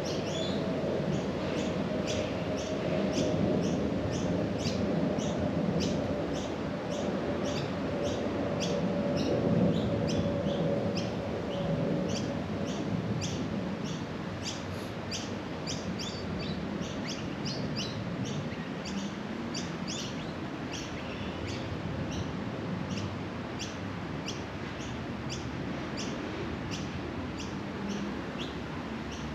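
Birds chirping: short high chirps repeated about twice a second, over a steady low background rumble. A faint steady hum fades out a little under halfway.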